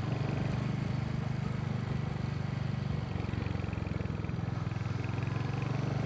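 Royal Enfield motorcycle engine running at a steady pitch, with an even low pulsing beat and no revving.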